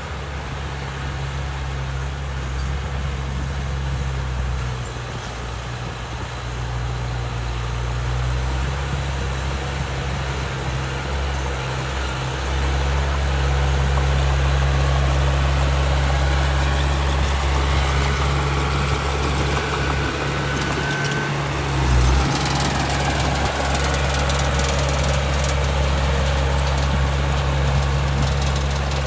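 Diesel engine of heavy earthmoving machinery running steadily, getting louder about halfway through. In the second half, high squealing whines glide up and down, and there is a brief thud about two-thirds of the way in.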